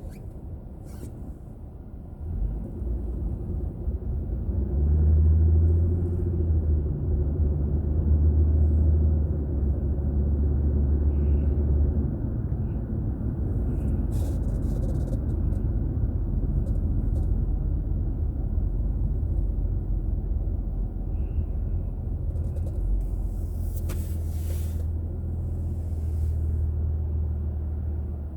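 A car's low engine and road rumble heard from the dashcam inside the cabin while driving. It rises about two seconds in, is joined by a steady low drone from about five to twelve seconds in, and the drone returns near the end.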